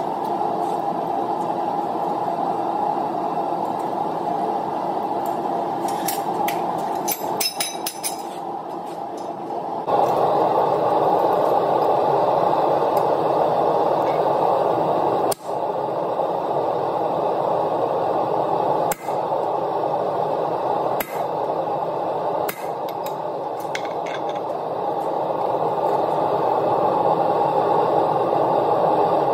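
A blacksmith's forge running with a steady rushing noise that gets louder about a third of the way in, with a few scattered metal clinks.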